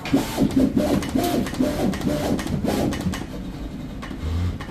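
Cardboard pattern-cutting plotter running, its drive motors whining in short tones that jump from pitch to pitch as the cutting head moves, with faint clicks. The whining stops after about three seconds, and a brief low hum follows near the end.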